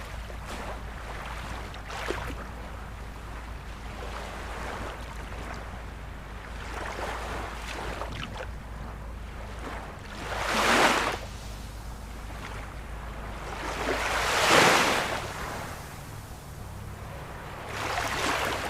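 Ocean surf: a steady wash of breaking waves over a low rumble. Three bigger waves swell and break, one about halfway through, the loudest a few seconds later, and another near the end.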